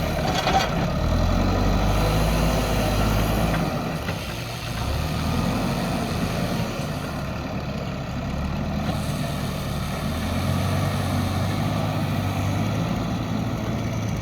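JCB backhoe loader's diesel engine running while it works, its speed rising for the first few seconds, falling back about four seconds in, and picking up again around ten seconds.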